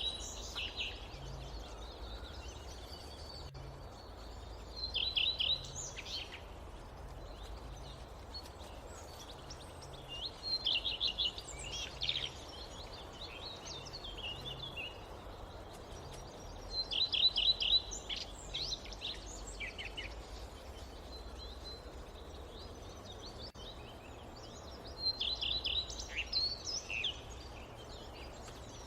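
A songbird singing a short phrase of quick, high notes, repeated five times about every five to seven seconds, with fainter chirps in between. Under it runs a steady hiss and low rumble of forest ambience.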